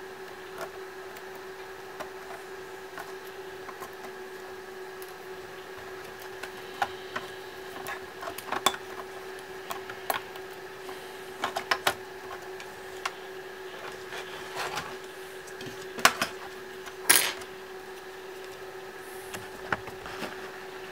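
Scattered small clicks and taps of a Toshiba Satellite L505 laptop's parts and tools being handled during disassembly, the loudest and longest one near the end, over a steady low hum.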